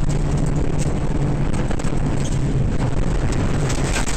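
Rally car engine running at a steady note, with wind buffeting the microphone and a few sharp clicks; the engine note drops away near the end.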